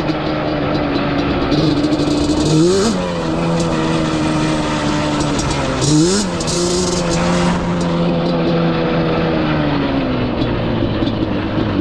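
Yamaha Banshee ATV's twin-cylinder two-stroke engine running under way at a steady pace, with two quick blips of the throttle, about three and six seconds in. It eases off slightly near the end.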